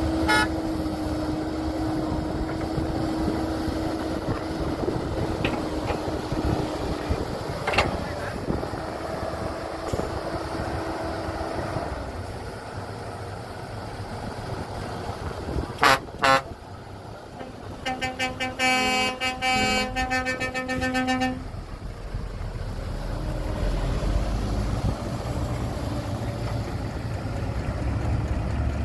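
Heavy truck and machinery engines running, with two sharp knocks a little past halfway. A vehicle horn then sounds in a run of short toots for about three seconds, followed by a deeper engine rumble that builds near the end.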